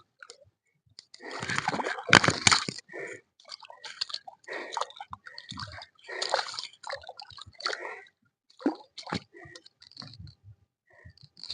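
Water splashing and sloshing in irregular bursts, loudest about two seconds in, with a few short sharp splashes later.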